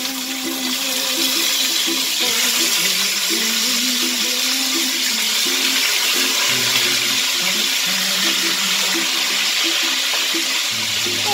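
Duck pieces frying in hot oil in a stainless steel pot: a loud, steady sizzle that starts up as the pieces go in.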